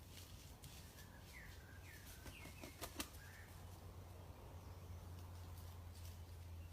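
Mostly near silence over a steady low hum, with four or five faint, short bird chirps about a second and a half in and a single sharp click near the middle.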